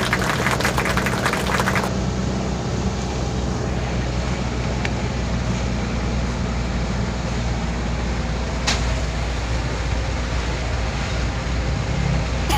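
Motor vehicle running steadily with road noise, a low engine hum throughout. A rattle is heard in the first two seconds, and a sharp click near the 9-second mark.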